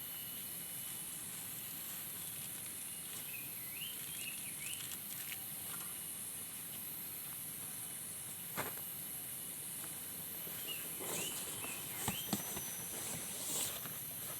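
Outdoor campsite ambience: a steady high hum of insects, broken twice by short runs of chirping animal calls and a few sharp knocks.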